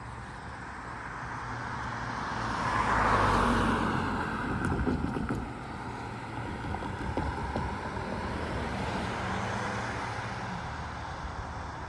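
A vehicle passing by, its noise swelling to a peak about three seconds in and then fading, with a few light clicks shortly after the peak.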